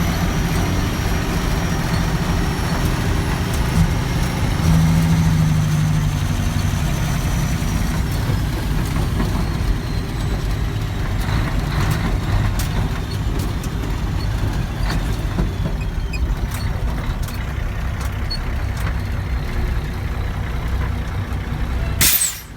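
Heavy diesel truck engine running under load, a deep steady rumble with a faint whine that slowly falls in pitch. A short sharp noise comes just before the end, then the sound drops off suddenly.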